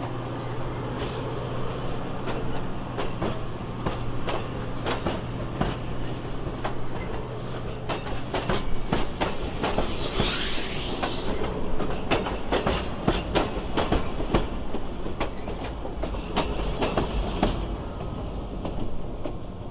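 A train rolling along the track, its wheels clicking steadily over the rail joints, with a brief loud high hiss about ten seconds in.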